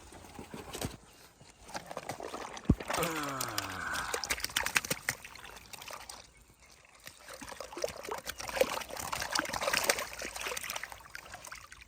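Water splashing and sloshing in two bouts, with a sharp click about two and a half seconds in, followed by a short falling whine.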